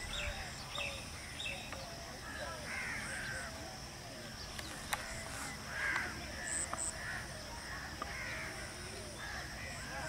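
Several birds calling and chirping throughout, with a few louder harsh, caw-like calls, over a steady high-pitched drone and a low rumble.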